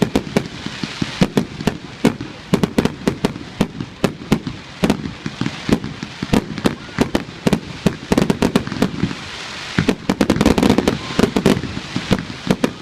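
Fireworks display: rapid, irregular bangs and cracks of aerial shells and cakes going off, several a second, with a denser flurry about ten seconds in.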